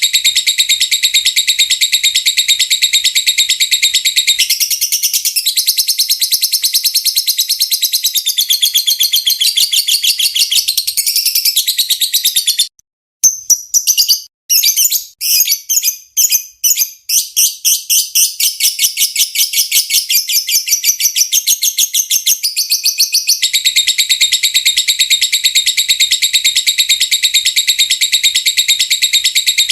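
Lovebird's long, fast chattering song (ngekek), a rapid ticking run of high notes. About halfway through it breaks into short choppy bursts with brief gaps, then runs on unbroken again.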